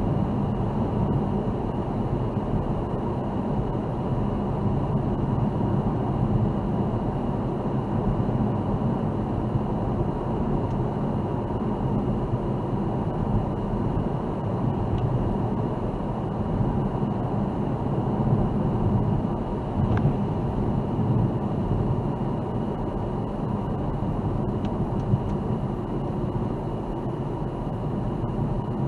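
Steady road and engine noise of a car driving, a low, even noise with no breaks.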